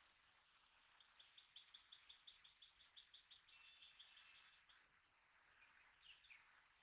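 Faint bird calling: a quick run of high repeated notes, about six a second, lasting a few seconds, followed by two short downslurred notes near the end.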